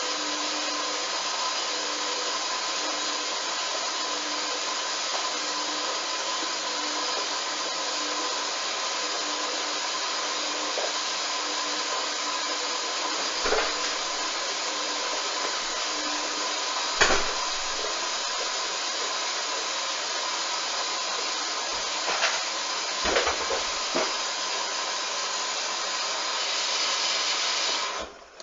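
Hoover washing machine on a duvet wash, running with a steady rushing whirr and a few soft knocks from inside the drum. The noise cuts off suddenly near the end.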